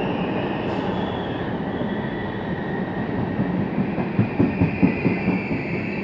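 Train running on the rails: a steady rumble with a high, drawn-out squeal, and a quick run of clacks from the wheels over rail joints about four seconds in.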